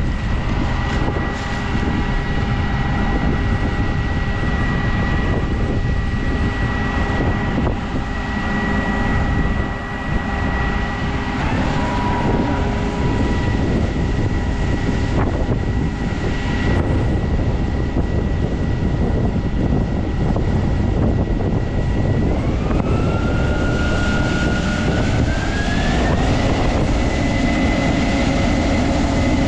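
Case IH 7230 combine harvester running steadily, a constant machinery drone with high whines. About three quarters of the way through, one whine rises in pitch in two steps and settles higher as the machine speeds up.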